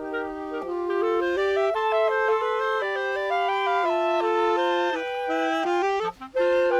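Woodwind trio of flute, clarinet and saxophone playing in parts, several held notes moving stepwise together, turning to short detached notes near the end. A faint low rumble of wind on the microphone lies underneath.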